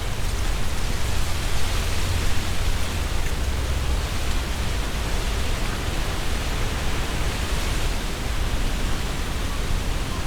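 Strong wind blowing through trees, the leaves rustling steadily in a dense hiss, with a low rumble of wind buffeting the binaural microphone and small rises and falls as gusts come and go.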